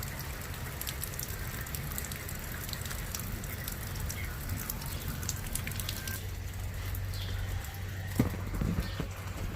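Rain falling, a steady hiss full of small drop hits, over a low steady hum. The rain thins out about six seconds in, and a single sharp knock comes near the end.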